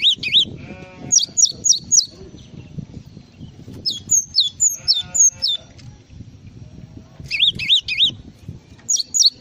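Gelatik songbird singing: short phrases of three or four quick, sharply falling whistled notes, repeated every second or two, over a low background rumble.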